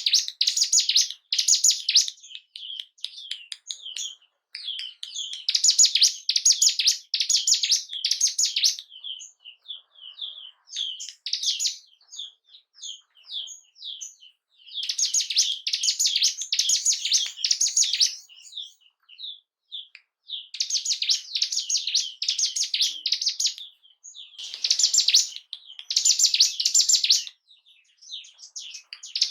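Ciblek gunung singing: dense phrases of rapid, high chirping a few seconds long, with sparser single notes between them.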